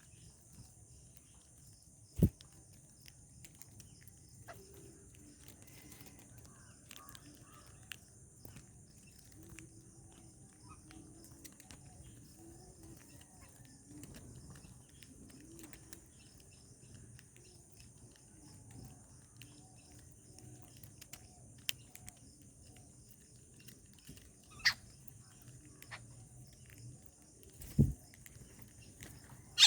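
Outdoor ambience at a bird feeding spot: a steady high-pitched hiss with faint bird sounds, broken by a few sharp knocks, one about two seconds in and two close together near the end.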